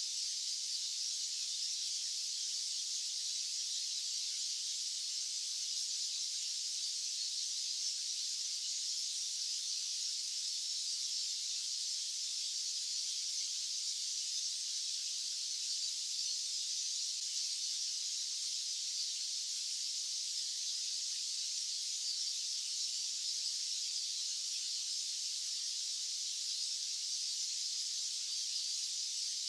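Steady white-noise hiss, high-pitched with no low rumble, unchanging in level.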